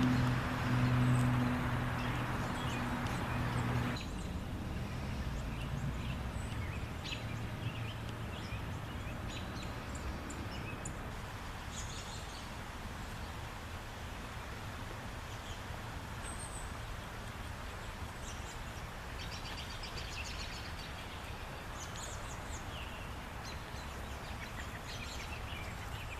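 Outdoor background noise with birds chirping now and then. A steady low hum at the start stops abruptly about four seconds in.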